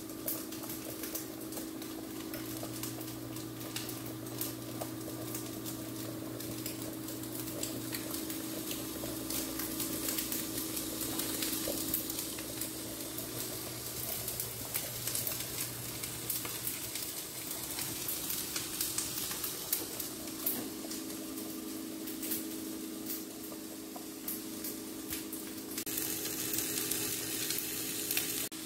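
Food sizzling and crackling as it fries in a pan, a steady hiss full of sharp little pops, with a steady low hum underneath.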